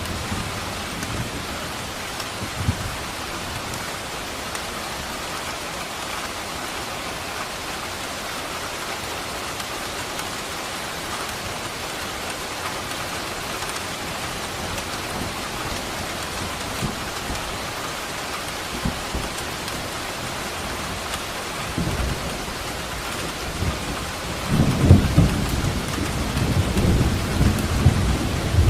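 Steady rain falling, with a roll of thunder rumbling in near the end and growing louder.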